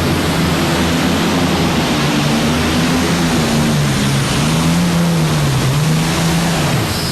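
Two Allison V12 aircraft engines on a modified pulling tractor, one twin-turbocharged in front and one fuel-injected behind, running at full throttle under the load of the pulling sled. The engine note sags gradually as the tractor bogs down, then falls away near the end as the run stops.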